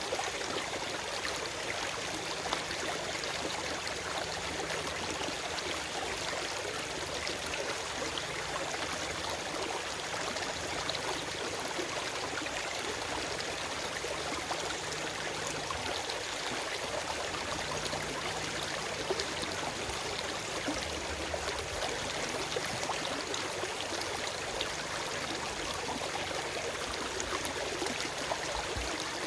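Forest stream flowing over rocks, a steady rush of water with constant small splashes and gurgles.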